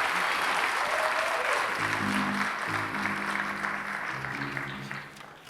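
Audience applauding after a jazz ensemble piece, the clapping fading out near the end. A few steady low instrument notes sound under it.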